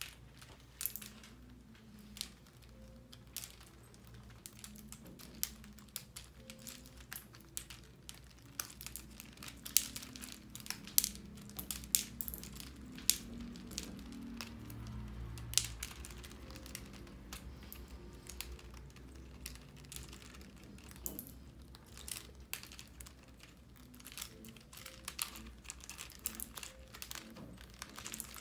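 Cockatiels playing with small plastic mushroom pegs: irregular sharp clicks and light clattering as the pegs are pecked at, picked up and dropped, busiest in the middle.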